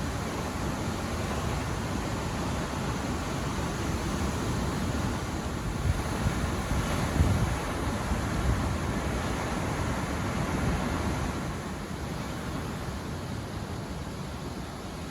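Ocean surf breaking and washing in, under wind buffeting the microphone: a steady rushing noise that swells with a few brief peaks about halfway through.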